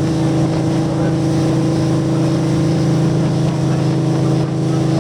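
Diesel engine of a river motor ship running steadily, a constant low drone with a strong even hum.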